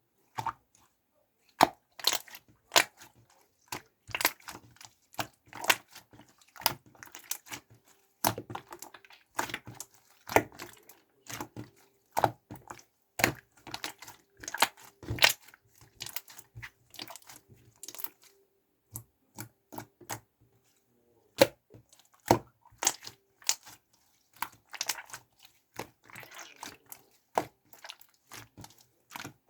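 Clear glitter slime being squished and pressed by hand, giving irregular sticky crackles and popping clicks with a few short pauses.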